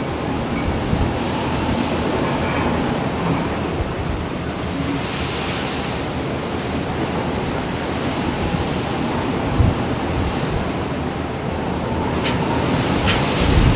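Heavy sea waves surging and breaking against a ship, with wind buffeting the microphone over a steady low rumble. Near the end come a few sharp knocks.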